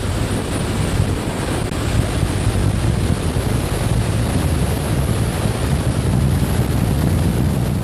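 Wind buffeting the microphone: a loud, steady rushing rumble, heaviest in the low end, that swells in and dies away again.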